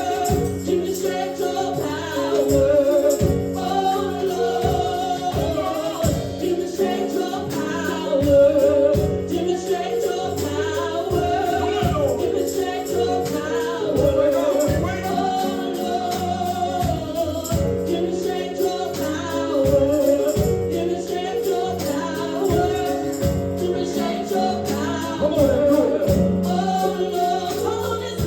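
Gospel praise and worship music: a congregation singing over a band, with a tambourine keeping a steady beat.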